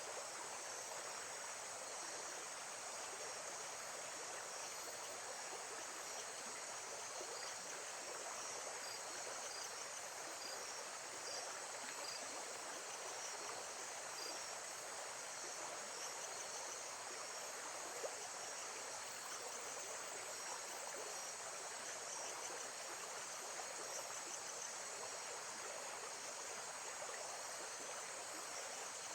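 Steady, unbroken sound of running water, with a faint high insect trill above it.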